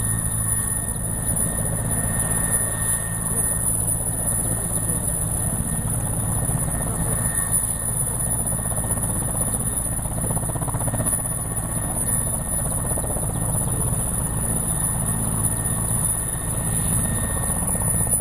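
Helicopter running steadily, a dense low rotor and engine drone with fast even pulsing and a thin constant high whine over it, unchanging throughout.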